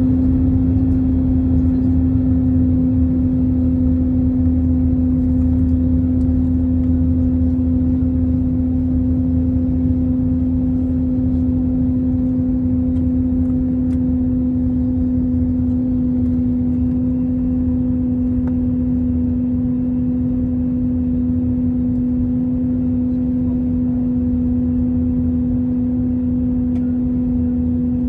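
Steady drone of the Airbus A321's jet engines heard inside the cabin: a constant hum over a low rumble, easing slightly in loudness over the first half.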